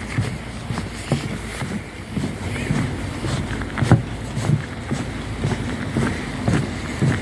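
Footsteps walking at a steady pace, about two steps a second, each a short low thud.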